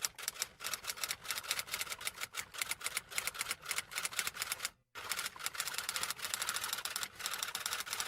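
Rapid typing clicks, several keystrokes a second, with a brief pause just before five seconds in.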